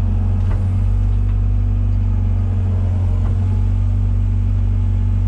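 Komatsu PC120-6 excavator's four-cylinder diesel engine running with a steady drone while the upper structure swings around.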